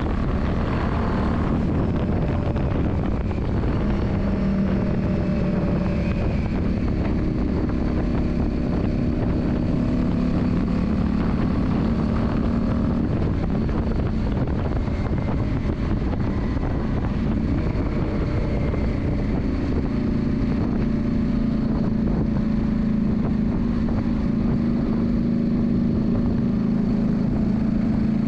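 Yamaha Drag Star 400's air-cooled V-twin engine running steadily, its note drifting up and down in pitch.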